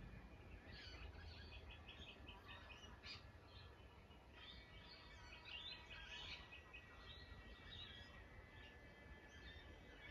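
Birds chirping and singing faintly, in clusters of quick high notes that come and go.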